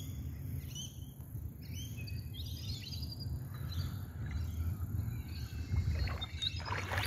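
Birds chirping and calling repeatedly over a low, steady rumble. Near the end, several short crackling noises join in.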